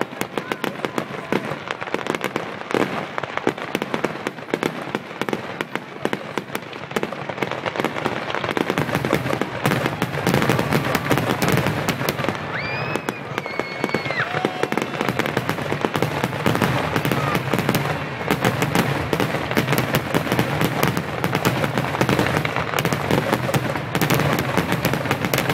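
Fireworks display with rapid, overlapping bangs and crackling that grow denser and louder about a third of the way in. A short whistle rises and falls near the middle.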